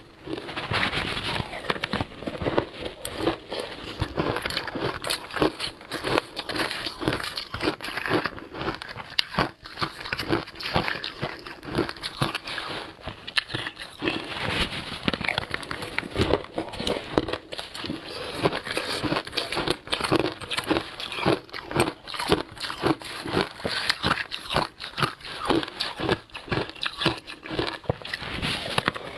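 Close-up crunching and chewing of frozen passion fruit ice: rapid, irregular cracks and crunches, many a second, with no let-up.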